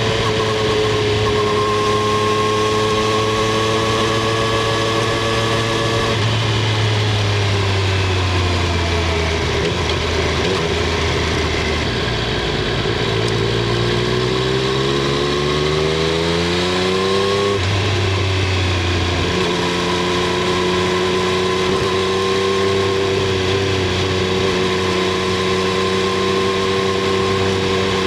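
Triumph Street Triple 765 R's inline three-cylinder engine and exhaust under way, heard from under the rear seat. The engine holds a steady note, winds down for several seconds, then revs up smoothly under acceleration. Its pitch drops sharply at a gear change about two-thirds of the way through, and it settles back to a steady cruise.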